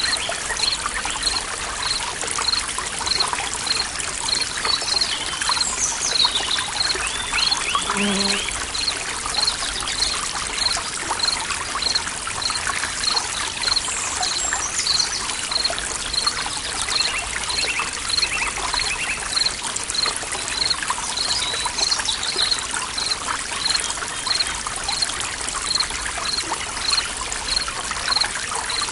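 Forest stream trickling steadily, with birds calling now and then and a high chirp repeating more than once a second.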